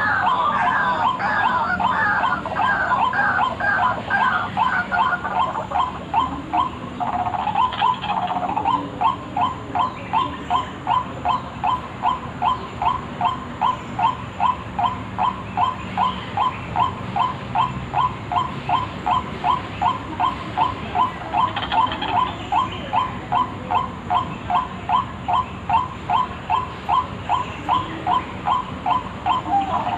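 White-breasted waterhen (ruak-ruak) calls played as a bird lure: a long, monotonous series of short repeated notes, about two to three a second.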